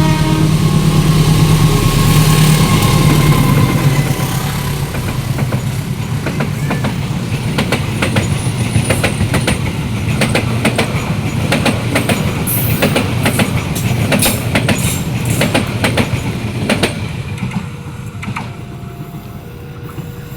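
Passenger train passing close by: the locomotive's engine is loud for the first few seconds, then the carriages' wheels clatter in a run of repeated knocks over the rail joints, fading about three seconds before the end.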